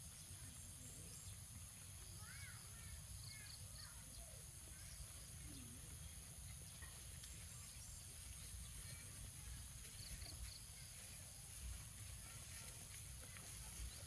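Faint rural outdoor ambience: a steady high-pitched insect drone with a low wind rumble and a few faint chirps.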